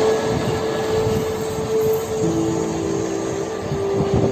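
Mumbai suburban electric local train running along the track as it pulls away: a steady rumbling noise with a steady hum, joined by a second, lower hum about halfway through.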